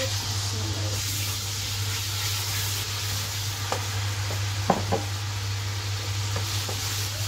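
Marinated chicken pieces sizzling as they hit hot oil in a nonstick wok, stirred with a wooden spatula, with a few knocks of the spatula against the pan about halfway through.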